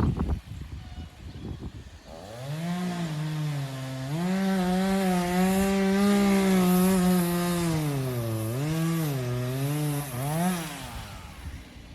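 Gas chainsaw cutting into a tree trunk. It starts about two seconds in, and its pitch sags and recovers repeatedly as the chain bites under load. It revs up briefly and cuts off near the end, after a few dull knocks in the first second.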